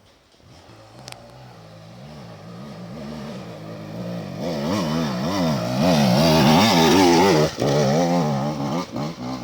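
Enduro motorcycle approaching and passing, its engine growing from faint to loud, the rider working the throttle so the engine note rises and falls about twice a second, with a brief cut near the loudest point.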